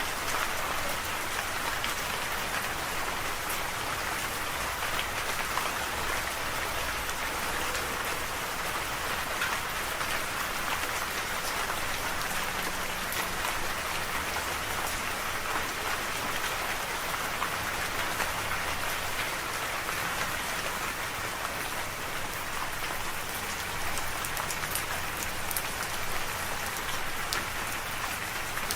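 Steady rain falling, an even hiss of rain with many small drop ticks on a surface.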